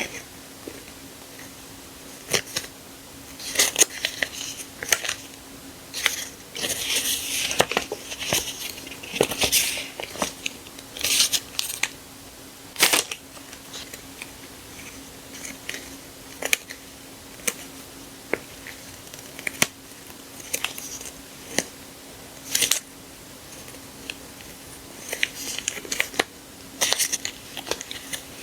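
Sticker sheets and their packaging being handled: short rustles and crinkles of paper and plastic with scattered light taps and clicks, over a faint steady hum.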